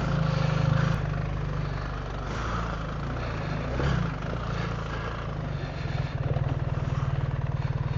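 BMW R 1300 GS Adventure's boxer-twin engine running steadily at low revs, its firing pulses becoming more distinct about six seconds in.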